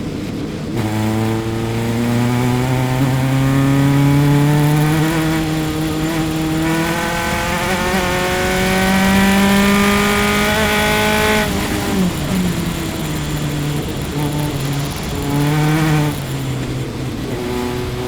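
Onboard sound of a single-seater race car's engine under full throttle, its pitch climbing steadily for about ten seconds. Near twelve seconds the revs fall sharply as the driver lifts. Two short rev rises follow toward the end.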